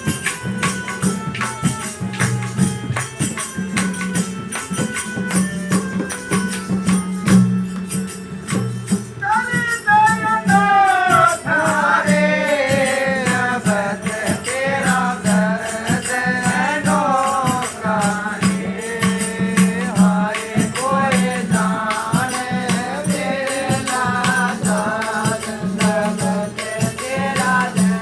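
Devotional satsang music: a held-note instrumental melody over a steady jingling rattle-and-tambourine beat, with a singer's wavering voice coming in about ten seconds in and carrying the tune from there.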